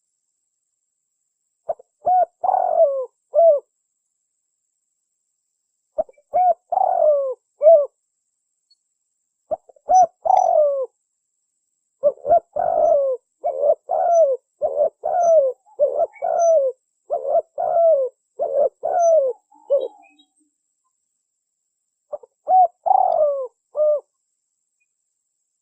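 Spotted dove (tekukur) cooing in phrases of several quick, bending coos, with pauses of a second or two between them. The phrases come about two seconds in, around six to eight seconds in, and around ten seconds in; a long unbroken run of coos follows from about twelve to twenty seconds in, and a last phrase comes near the end.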